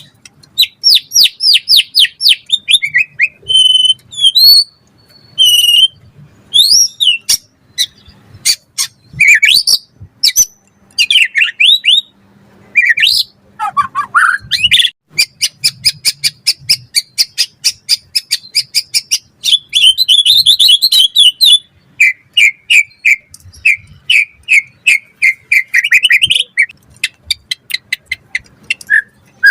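White-rumped shama (murai batu) singing a fast, varied song: rapid chip series, trills, down-slurred whistles and shifting phrases, changing every few seconds.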